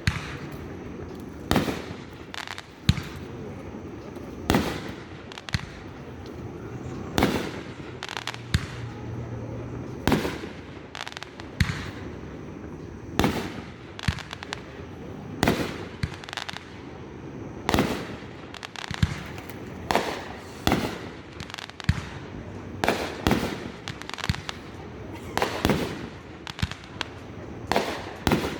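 Fireworks going off: a long run of sharp bangs at irregular gaps of about one to two seconds, with a steady background noise between them.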